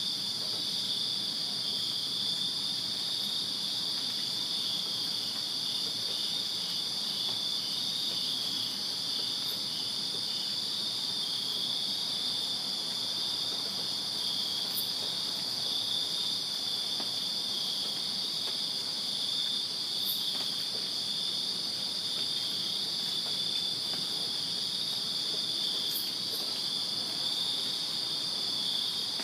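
A night chorus of crickets chirping without a break, a steady high trill at two pitches, the lower one in quick even pulses for a while early on.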